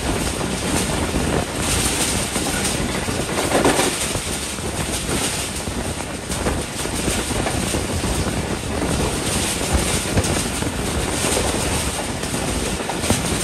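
Passenger train coach running at speed: a steady rush of wheels on the rails mixed with wind noise, heard from an open door or window.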